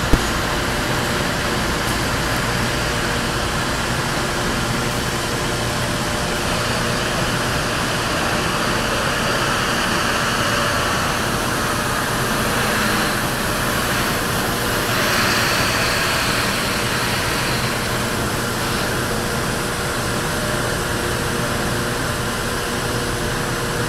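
Steady machine drone of a ferry during disembarkation: an even rumble and hiss with a constant hum, swelling slightly about fifteen seconds in.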